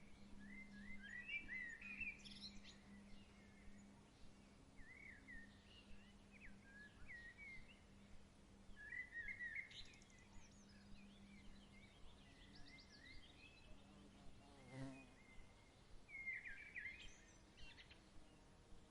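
Faint songbirds chirping and warbling in short repeated phrases throughout, over a low steady hum that fades out about twelve seconds in.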